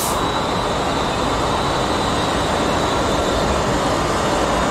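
A train running past close by: a steady, loud rush of wheels on rail, with a thin high squeal fading in the first moments.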